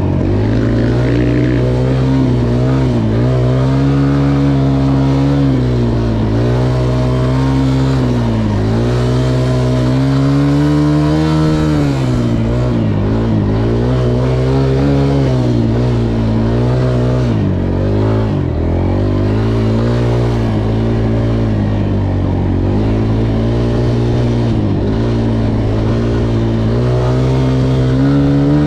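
Motocross dirt bike engine running hard, its pitch rising and falling every second or two as the throttle is opened and rolled off.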